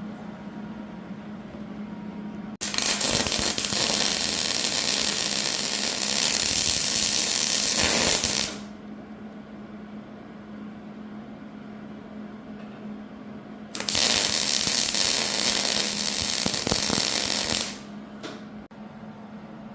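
Arc welding with a Hobart welder on 3/8-inch mild steel plate, filling dents: two runs of steady crackling, the first about six seconds long and the second, a few seconds later, about four seconds long. Each starts and stops abruptly.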